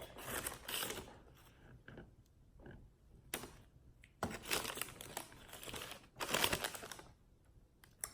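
Eating a crunchy taco: crunching bites into the shell and crinkling of its paper wrapper, in several short bursts.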